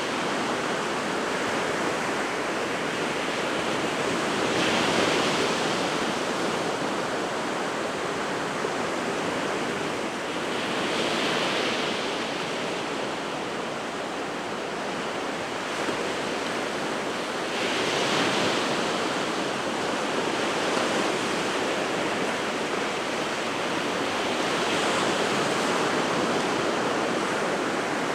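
Sea waves breaking on the shore: a continuous wash of surf that swells as a wave breaks roughly every six to seven seconds.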